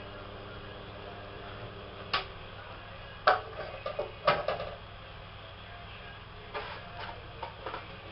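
A steady mechanical hum that cuts off with a click about two seconds in, followed by a scatter of short, irregular knocks and clicks.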